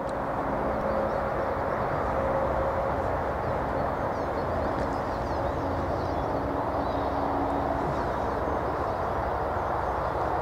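An approaching train's steady rolling rumble, with a faint humming tone over it, heard while the level crossing stands closed.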